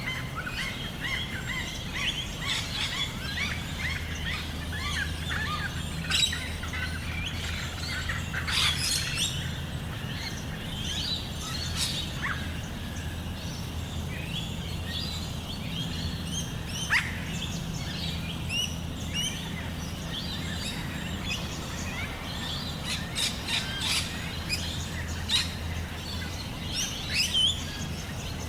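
Several birds chirping and calling all through, in short chirps and quick falling notes, over a steady low hum that strengthens a few seconds in.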